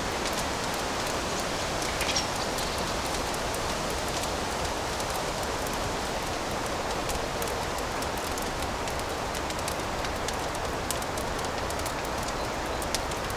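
Wood fire crackling in a fireplace: a steady hiss and rumble of flames with scattered sharp crackles and pops, a louder pop about two seconds in.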